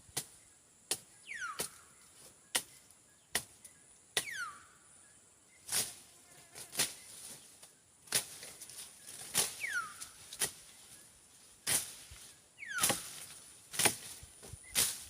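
Machete slashing through brush and grass: sharp chopping strokes about once a second, some swings with a quick falling swish. Insects keep up a steady high buzz underneath.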